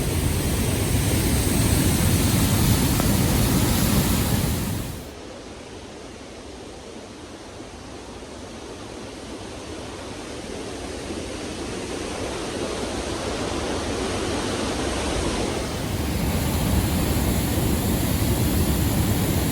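Steady roar of Niagara Falls' rushing water, with a deep rumble in the first few seconds. About five seconds in the sound drops off sharply, then slowly builds back up.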